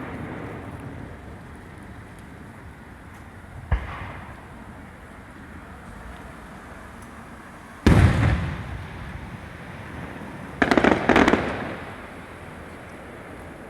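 Aerial fireworks bursting: a sharp bang about four seconds in, a loud boom about eight seconds in that rumbles away over a second, then a quick cluster of pops around eleven seconds.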